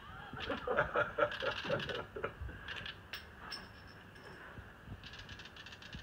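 Birds calling: a burst of short calls in the first two seconds, a few thin high whistles in the middle, and a high rattling chatter near the end.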